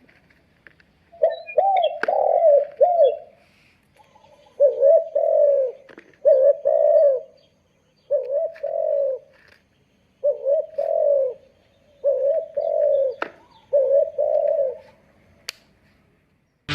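Recorded dove cooing played through a homemade hunting bird-caller speaker: six bouts of repeated arched coos, each a second or two long, with short gaps between them.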